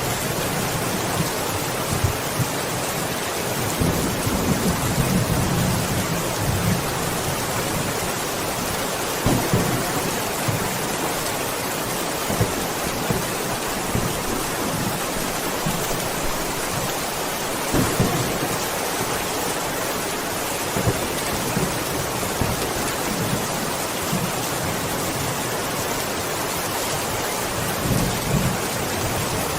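Steady heavy rain falling, with low rolls of thunder rumbling now and then, one near the start and another near the end.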